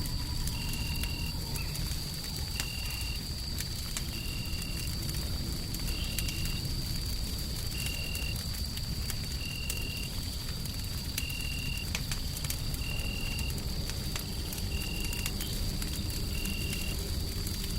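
A wood fire crackling in a hearth, scattered sharp pops over a steady low rumbling white noise. A steady high whine runs under it, and a short high beep-like tone repeats about every second and three-quarters.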